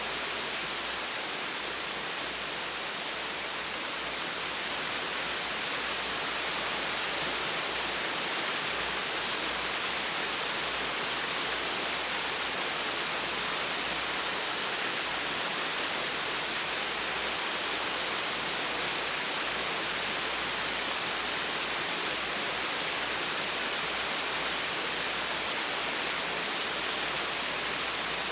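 Small gentle waterfall: a steady, even rush of falling water, mostly hiss with little deep rumble.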